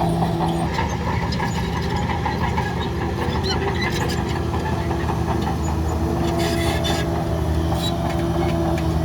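Heavy diesel earth-moving machinery running steadily, with scattered clicks and knocks over the engine note and a short burst of hiss-like noise about two-thirds of the way through.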